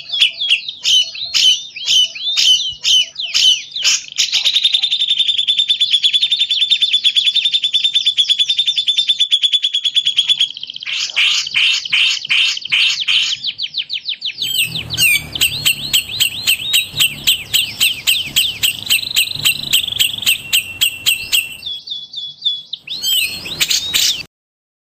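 Recorded songbird song for bird training: rapid, high chirps and fast trills. The song changes character several times, as different recordings follow one another, and stops abruptly just before the end.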